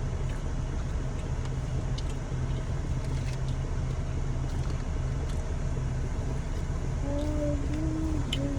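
Steady low hum of a car idling, heard from inside the cabin, with a few faint clicks. Near the end comes a short pitched hum, like a voice.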